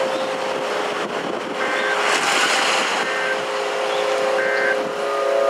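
Federal Signal Model 5 outdoor warning siren, which failed during this test run, sounding a steady tone made of several pitches, under a broad rush of outdoor noise that swells about two seconds in.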